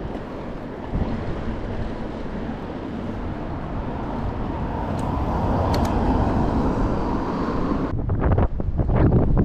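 Wind rushing over the microphone while riding a bike, a steady rush that grows slowly louder, turning into gusty low buffeting near the end.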